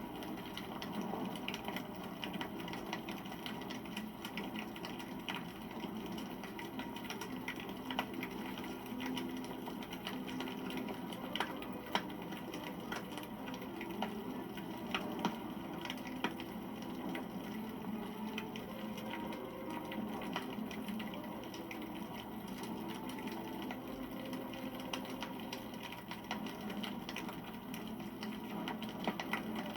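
Wood campfire burning: a steady low rush of flame with scattered crackles and pops, a couple of sharper snaps about twelve and fifteen seconds in.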